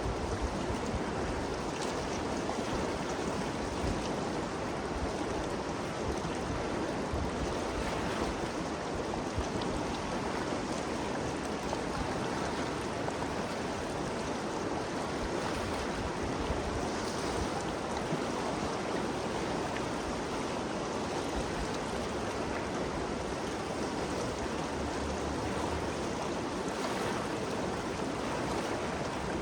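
Ganges River water flowing and rushing steadily, a continuous even rush.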